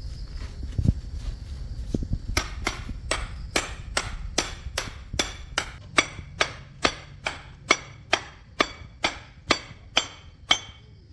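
A hammer strikes metal in a steady run of ringing blows, about two and a half a second, for about eight seconds, starting a couple of seconds in. Before the hammering there is a low rumble with a few duller knocks.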